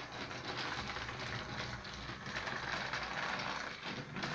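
Battery-powered Trackmaster Thomas toy engine with its stock motor running along plastic track: a steady whir of the small motor and gears with rapid clicking.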